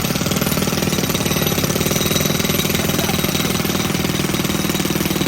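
A small engine running steadily, with a fast, even pulsing beat.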